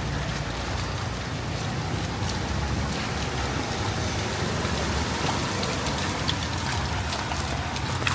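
Steady hiss of rain falling on a wet street, with the low hum of a vehicle engine running underneath.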